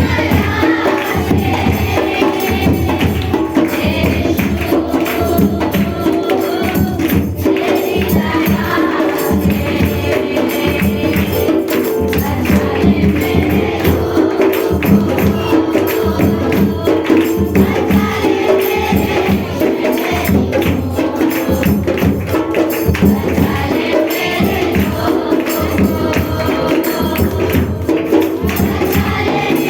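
Worship music: a group singing a devotional song to a steady beat, accompanied by a jingling tambourine.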